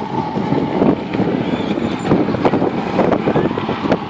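Quad bike engine running steadily, with a constant whine and a rough, knocking rumble underneath.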